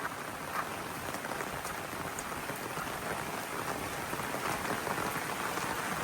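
Torrential rain falling steadily, a dense patter of drops on the ground and surfaces, growing slightly louder toward the end.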